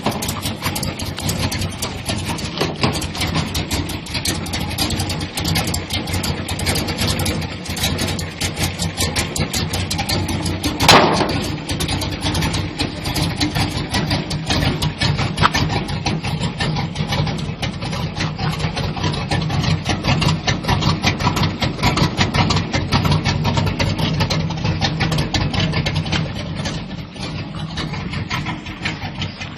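Square-body Chevrolet/GMC pickup engine idling roughly, with uneven pulses in its running. About a third of the way in, a single brief sharp chirp rises above it.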